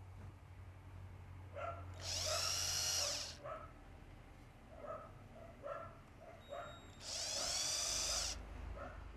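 A small electric drill run twice in short bursts of about a second each, spinning up to speed each time and then running steadily, as it works on a small metal fishing lure.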